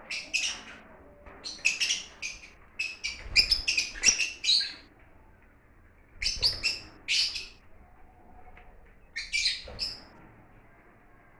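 Lovebirds chirping: quick clusters of sharp, high-pitched calls, about five bursts with short pauses between them.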